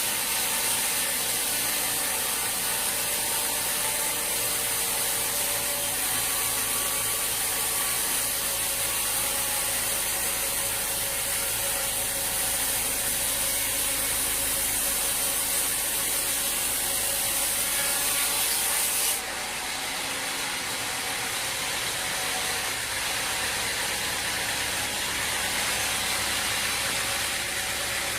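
Sawmill machinery running steadily, a mix of motor hum, whine and saw or wood-handling noise. The sound changes abruptly about two-thirds of the way through, the high hiss dropping away.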